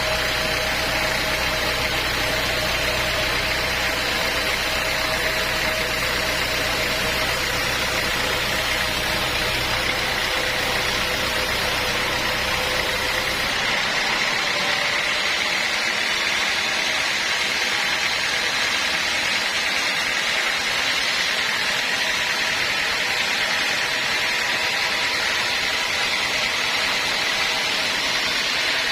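Sawmill machinery running steadily, a continuous noisy hum with a constant high whine. A low rumble underneath drops out suddenly about halfway through.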